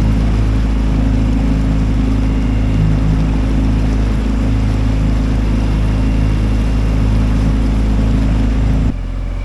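Dinghy outboard motor running steadily at speed, loud and close, with a steady low drone. The level drops suddenly near the end.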